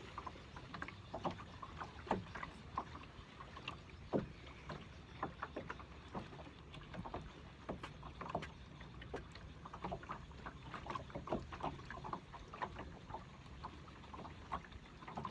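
Small waves lapping and slapping irregularly, with many short knocks, several a second, over a low steady wash.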